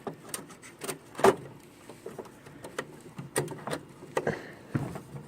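Irregular clicks and knocks of a PCIe graphics card being pushed and wiggled into its slot in a computer case, the loudest knock about a second in.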